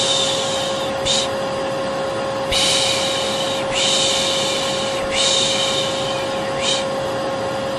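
Vacuum cleaner motor running steadily with a constant hum, overlaid with repeated 'shhh' shushing sounds used to soothe a baby to sleep: long shushes of about a second and a half, with short quick ones in between.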